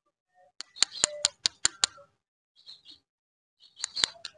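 Plastic packaging being handled and unwrapped: a quick run of sharp clicks and crinkles about a second in, and another starting near the end.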